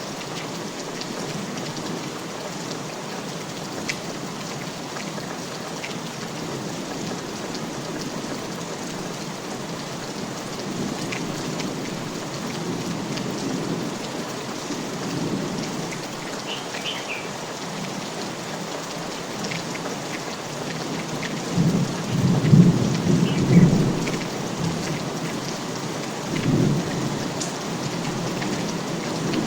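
Steady rain falling, with thunder rumbling low about two-thirds of the way through and once more briefly near the end.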